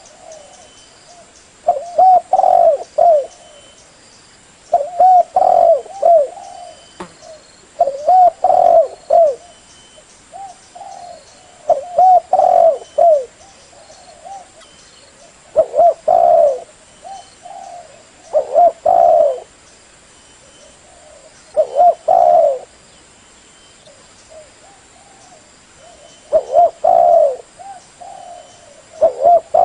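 Spotted dove (tekukur) cooing: a loud multi-note coo phrase repeated about every three seconds, nine times, as used for a dove lure call.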